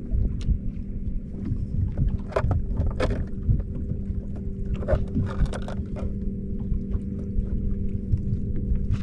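Bass boat's outboard motor running steadily under way, a constant drone over the low rumble of the hull on the water, with irregular sharp knocks as the hull slaps waves.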